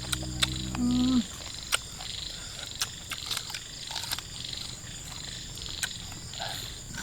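A steady, pulsing chorus of calling frogs, broken by scattered sharp clicks. A low hum stops suddenly about a second in.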